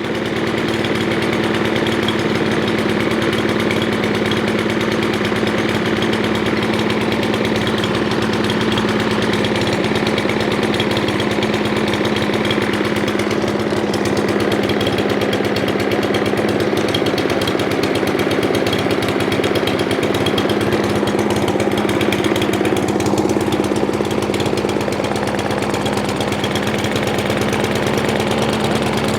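Craftsman M270 lawn mower's 159cc single-cylinder engine running steadily at speed, its pitch holding even throughout. The engine is running again after a no-start caused by stale gas in the carburetor.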